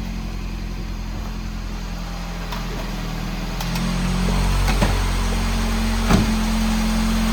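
A 2014 Mini Cooper Countryman's 1.6-litre four-cylinder engine running steadily, growing a little louder about four seconds in, with two sharp clicks in the last few seconds.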